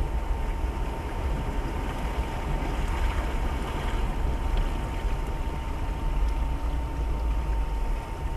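Inside a car in a heavy downpour: a steady low engine-and-cabin rumble under the hiss of rain and water, with a thin, steady whine above it.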